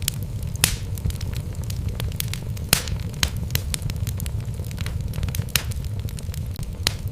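Wood fire in a fireplace burning steadily with a low rumble, logs crackling and popping at irregular moments, a few sharper pops standing out.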